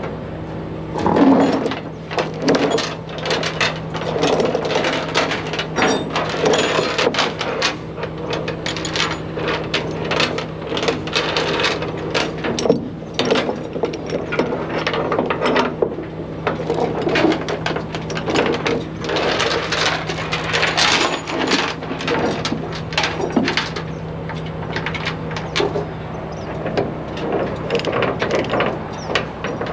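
Heavy tow chains clinking and rattling as they are wrapped around a truck axle and hooked, over the steady hum of an idling truck engine.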